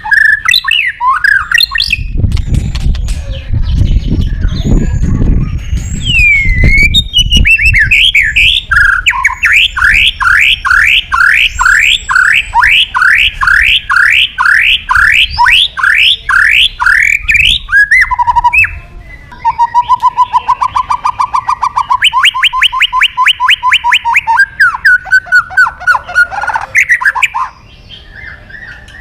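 White-rumped shama (murai batu) singing a loud, varied song. It has a long run of repeated rising whistled notes at about two a second, then fast lower trills and quick chattering phrases. A low rumble sits under the song for a few seconds near the start.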